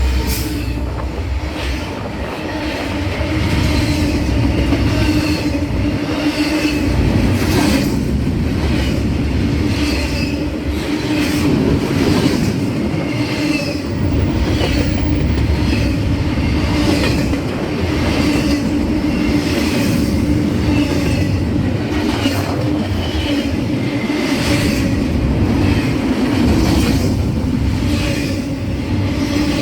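Freight train rolling past at speed: a steady, loud rumble with repeated wheel clacks over the rail joints every second or two.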